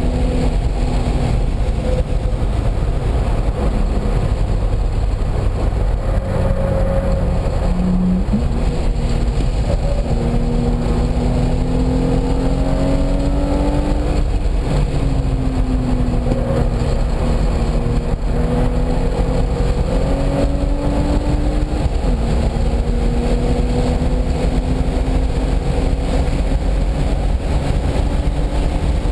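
Car engine heard from on board at speed on a race track, its pitch climbing under acceleration and dropping abruptly at several gear changes, over steady wind and road rumble.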